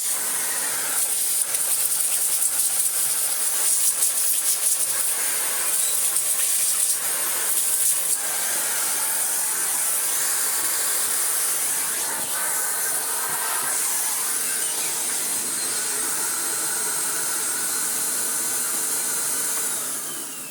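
Miele Blizzard CX1 bagless vacuum cleaner running with its hose and crevice tool fitted, a loud steady rush of air that is uneven through the first several seconds. Near the end it is switched off and winds down with a falling whine.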